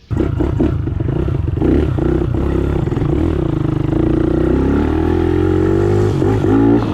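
Pit bike engine running under throttle, its pitch climbing steadily from about four seconds in and wavering near the end.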